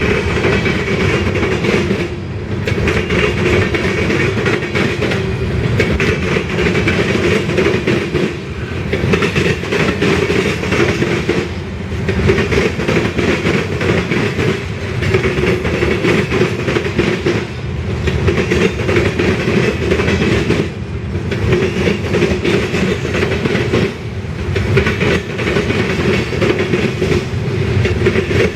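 Freight train cars rolling past on steel wheels: a steady clickety-clack over the rails, with a brief dip in level every few seconds.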